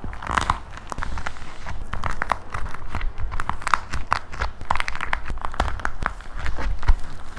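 Dried plaster clay being cracked and crushed by hand: a dense, irregular run of small crunches and crackling pops.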